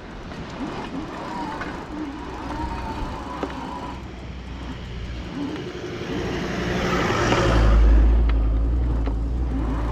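A motor vehicle driving past, its rumble and tyre noise growing louder to a peak about eight seconds in, then starting to fade.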